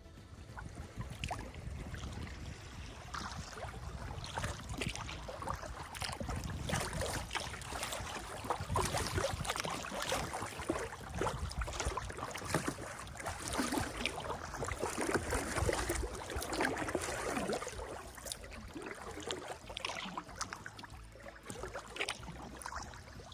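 Kayak paddle dipping and splashing in river water, with small splashes, drips and gurgles, loudest through the middle.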